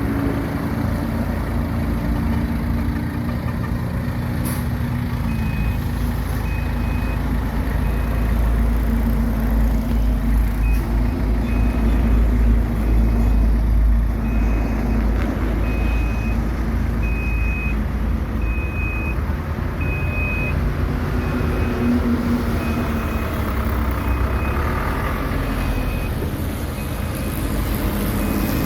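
Diesel engine of heavy earthmoving machinery running steadily, with a reversing alarm beeping over it at an even pace from about five seconds in.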